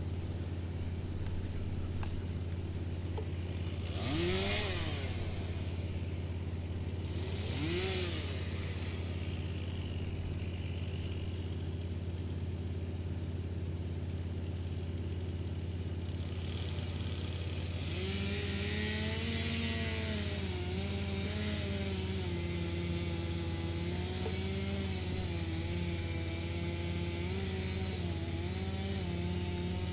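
Wood chipper running steadily, with two short bursts of chipping about four and eight seconds in, each with a brief rising whine. From a little past halfway comes a longer stretch of chipping, with the machine's note wavering up and down under the load.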